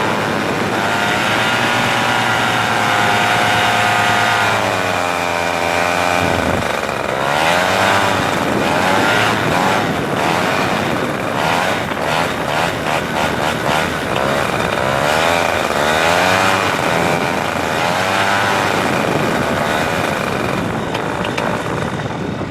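A motor engine running, its pitch held steady at first, dropping sharply about six seconds in, then rising and falling over and over about once a second.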